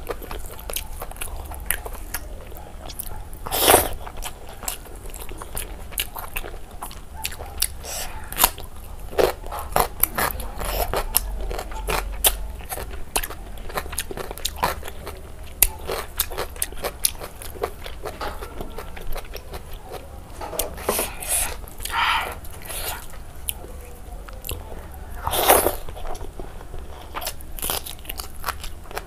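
Close-miked eating of pork belly curry and rice by hand: steady wet chewing, lip smacks and small clicks, with a few louder, longer mouth noises about four seconds in, around twenty-one seconds and about twenty-five seconds in.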